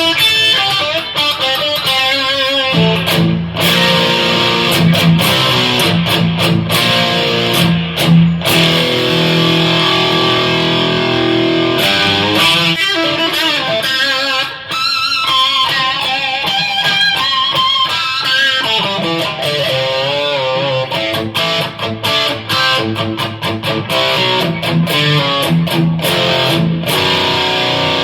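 Electric guitar played through a Donner Dark Horizon distortion pedal. A riff on repeated low notes gives way, about halfway through, to lead lines with wavering vibrato.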